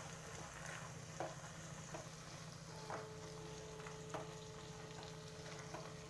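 Soaked chana dal frying in oil in a nonstick kadhai while being stirred with a spatula: a faint, steady sizzle with a few soft clicks of the spatula against the pan.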